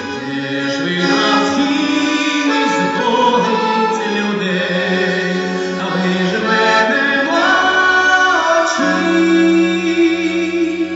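Music: singing with instrumental accompaniment, ending on a long held chord.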